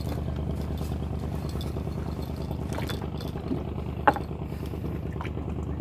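A small engine running steadily with a low, even hum, with a few short clicks over it and one sharper click about four seconds in.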